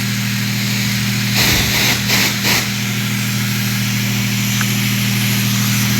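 Self-serve car wash high-pressure wand spraying on the high-pressure soap setting, a continuous hiss over the pump's steady hum; the spray hiss surges louder a few times about one and a half to two and a half seconds in.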